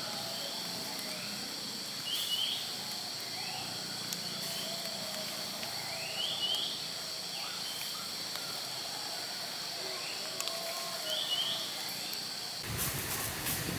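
Forest ambience: a steady high insect drone, with a bird repeating a short rising call about every four seconds and fainter calls beneath it. About a second before the end, a loud rush of hissing noise sets in.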